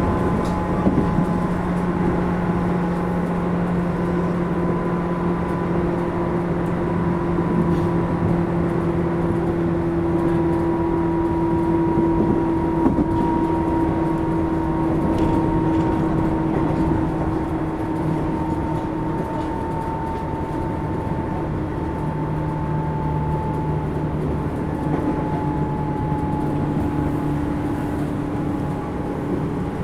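Tobu 10000 series electric commuter train heard from inside a motor car, running steadily with continuous wheel-on-rail rumble. Its motor hum slowly drops in pitch as the train eases off speed.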